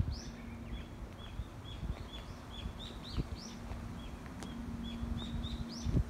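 Small birds chirping in the trees: a steady run of short, hooked notes, a few a second, now and then a higher sweeping note, over a low outdoor rumble.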